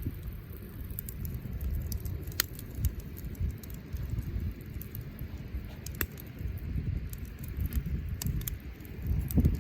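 Wood bonfire crackling, with scattered sharp pops (two stronger ones about two and a half and six seconds in) over a steady low rumble.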